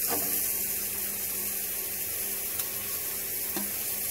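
Freshly added sliced onions sizzling in hot oil and spice masala in a kadai: a steady frying hiss with a few faint clicks. The onions are at the start of frying toward golden.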